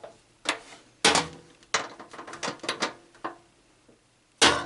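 Knocks, clicks and rattles of a microwave oven's metal and plastic parts being handled and worked on during disassembly, with a louder knock about a second in and another near the end.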